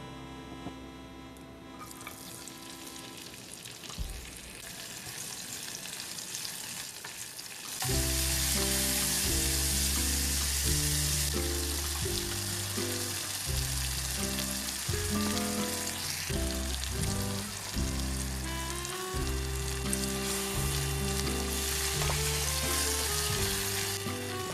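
Sliced onions frying in oil in a saucepan: a steady sizzle, with a spatula stirring, and later with tomato sauce stirred in. About a third of the way in, background music starts and plays loudly over the sizzle.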